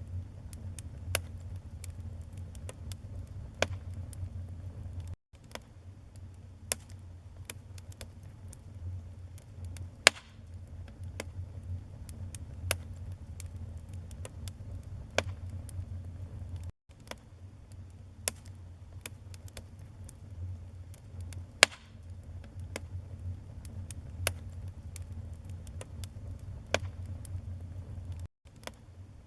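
Wood fire burning in a fireplace: crackling, with frequent small snaps and a few louder pops over a low steady rumble. The sound drops out for an instant three times.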